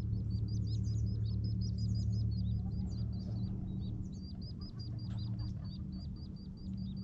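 A bird repeating a short high chirp about four times a second in a long even series, over a steady low hum.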